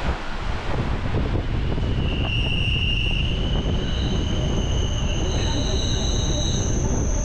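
Train running on rails with a steady rumble, and a high-pitched wheel squeal of several pure tones that sets in about two seconds in and dies away near the end.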